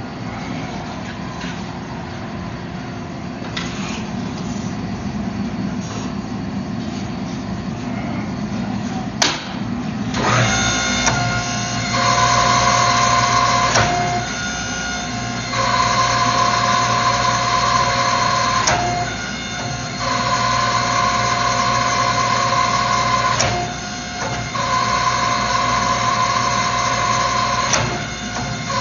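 A steady shop hum, then a sharp click, and about ten seconds in a motor-driven machine starts up and runs with a steady whine. A louder higher tone comes in and drops out four times, every few seconds.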